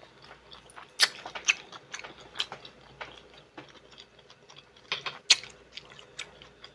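Close-miked eating sounds: irregular wet clicks and smacks of chewing with the mouth, with a few louder sharp clicks about a second in and again around five seconds in.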